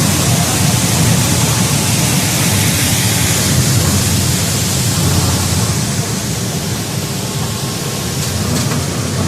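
Industrial bubble vegetable washing machine running: a steady rush of water churned by air bubbles over a low machine hum, easing off slightly in the second half.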